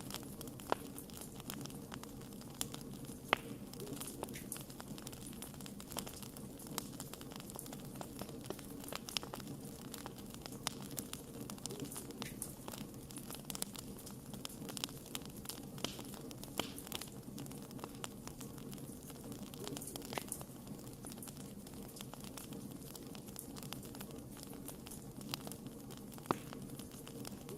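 A wood campfire crackling, with frequent sharp pops scattered irregularly over a steady low hiss.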